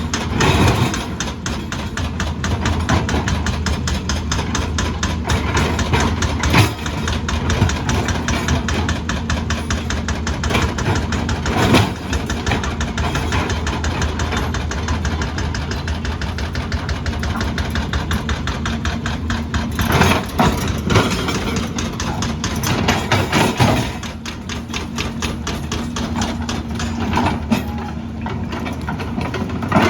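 Diesel engine of heavy earthmoving machinery running steadily with a fast, even clatter, with a few louder knocks along the way.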